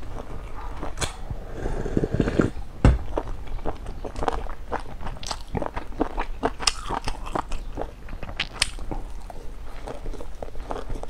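Close-miked eating sounds: a person biting and chewing a piece of cooked pork, a steady run of short sharp mouth clicks. One dull thump about three seconds in.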